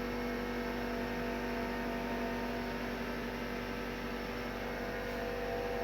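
Steady electrical or machine hum with a few unchanging tones; its level and pitch do not change.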